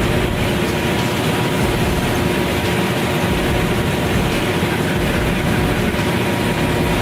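A heavy vehicle running with a loud, steady mix of engine and rolling noise and a faint steady hum in it.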